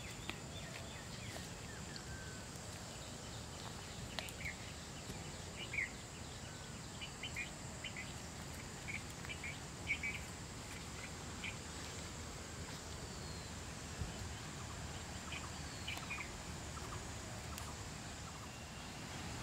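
Short bird calls, a few at a time, scattered through the middle, over a steady faint background hiss with a thin high steady whine.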